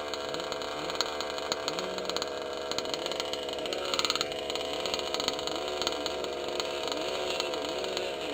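Small two-stroke engine of a gas-powered 1/5-scale RC off-road car running and revving up and down in quick, repeated surges. Scattered clicks, and a brief hiss about four seconds in.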